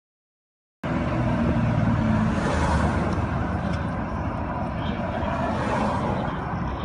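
Steady road-vehicle noise, engine hum and tyre-on-road rush, cutting in abruptly about a second in after dead silence.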